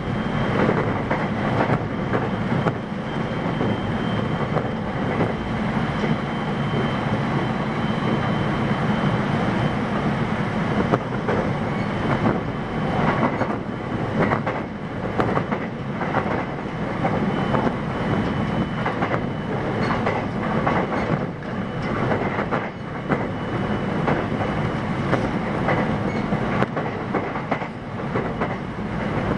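Interior running sound of a JR West 521 series 0 electric multiple unit with Mitsubishi IGBT VVVF drive, heard in motor car KuMoHa 521-25: a steady rumble at an even speed, with the wheels clicking over rail joints.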